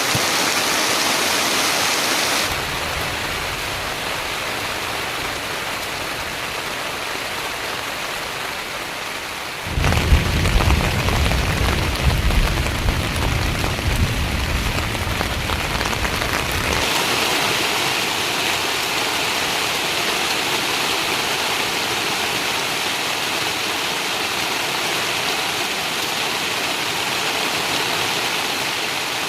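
Steady hiss of rain that changes abruptly a few times. In the middle, for about seven seconds, a deep low rumble with a few louder peaks comes in.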